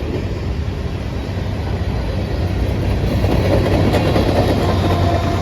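Empty freight train of potash cars rolling along the track: a steady rumble of wheels on rail over a low hum, swelling slightly about three seconds in.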